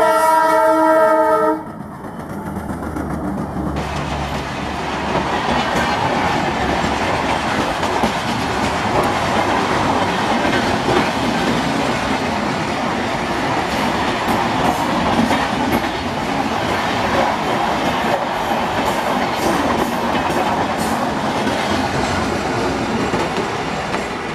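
WDM3D diesel locomotive sounding its horn, one loud blast of about a second and a half, then the low rumble of the locomotive passing. Then come the steady rumble and clickety-clack of its coaches rolling past at speed, fading near the end.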